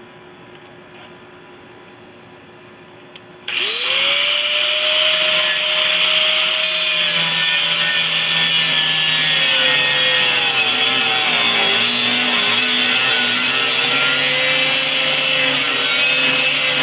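A handheld power tool's motor spins up about three and a half seconds in and runs continuously with a loud hiss. Its pitch sags in the middle as it takes load, then recovers, and the tool keeps running through to the end.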